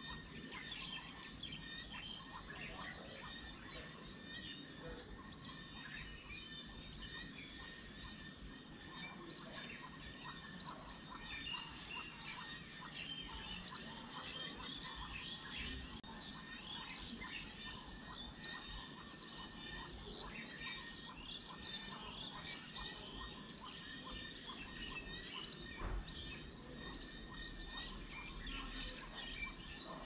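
Outdoor bird chorus: several birds chirping and calling in many short, overlapping notes, over a faint steady background.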